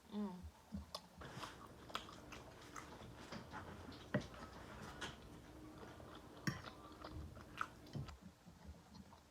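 A person chewing and biting food in a mukbang (garlic sea scallops and asparagus), with irregular wet mouth clicks and crunches throughout. A short falling hum is heard right at the start.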